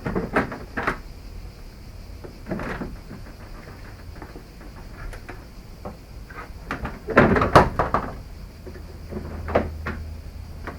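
Irregular knocks and clunks of hand tools and car parts being handled during dismantling, with the loudest cluster a little past the middle.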